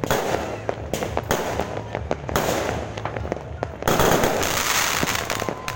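Fireworks going off in a rapid run of sharp bangs and pops with spells of hissing crackle; the loudest volley comes about four seconds in.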